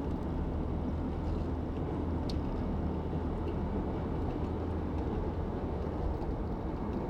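Steady road and engine noise inside a car cruising at an even speed: a continuous low noise that does not rise or fall.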